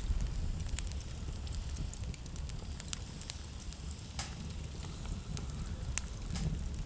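Wood fire burning in a fireplace: a low steady rumble of flames with frequent sharp crackles and pops from the burning logs.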